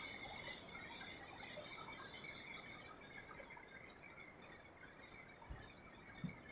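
Faint hiss of surf washing on the beach that fades out about halfway through, followed by soft, evenly paced footsteps crunching on sand and pebbles.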